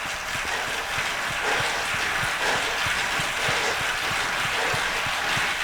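Indoor bike trainer being pedalled hard at about 90 RPM: a steady rushing hiss with soft low thumps about three times a second, in time with the pedal strokes.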